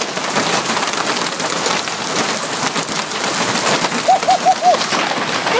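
Large hailstones pelting down in a severe hailstorm: a dense, steady clatter of countless impacts. About four seconds in, four short, quick, high-pitched calls cut through.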